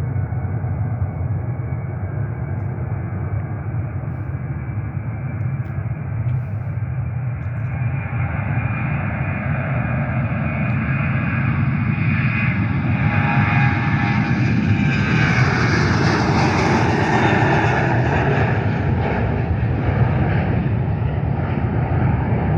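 Airliner's engines passing close by: the sound builds steadily, peaks about two-thirds of the way through with a falling pitch as it goes by, then eases off a little.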